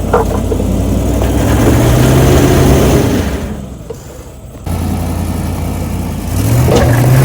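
Solid-axle-swapped Suburban's engine revving under load as it crawls up a rock ledge, rising in pitch twice with a quieter lull in between that ends abruptly about four and a half seconds in.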